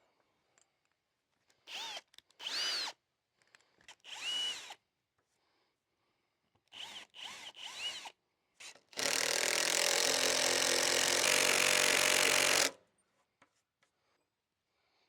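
A power drill run in several short trigger pulls, its motor whining up and down in pitch each time, then one longer, louder run of nearly four seconds.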